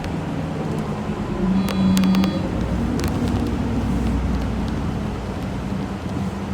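City bus running along a road: a steady engine hum with road noise, a few light clicks, and a brief high-pitched tone about two seconds in.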